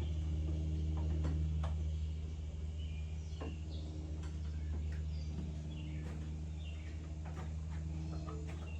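A steady low hum, with scattered clicks and light knocks of hand work and a few brief high chirps.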